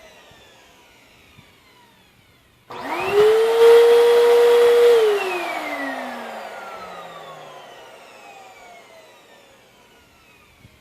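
Vacuum cleaner motor switched on about three seconds in, spinning up quickly to a loud steady whine, then switched off after about two seconds and winding down with a slowly falling pitch that fades away.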